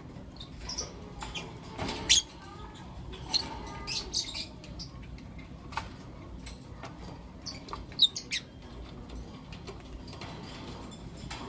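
Lovebirds giving short, sharp, high-pitched chirps and squeaks at irregular intervals, the loudest about eight seconds in.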